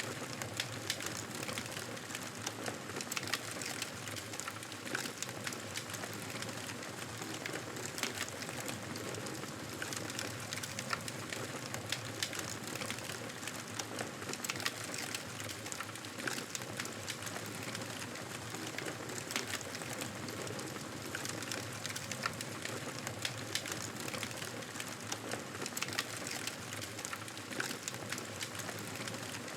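Wood fire crackling in a fireplace: a steady hiss with frequent small pops and snaps throughout.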